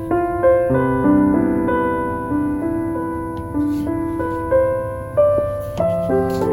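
Slow, gentle solo piano music, with notes and chords sounding in turn and ringing on. Faint, sparse crackles, like a wooden-wick candle, sit under it.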